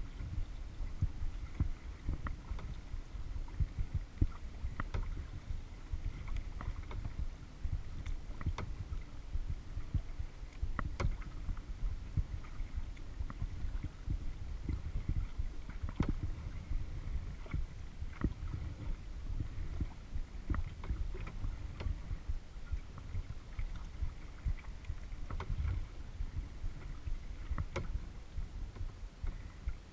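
Kayak being paddled: small irregular splashes and drips as the paddle blades dip and lift from the water, over a steady low rumble.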